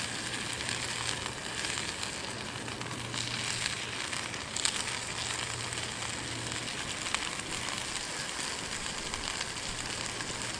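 Beef and vegetables frying in hot oil in a stone bowl over campfire coals, a steady sizzle with an occasional sharp click or pop.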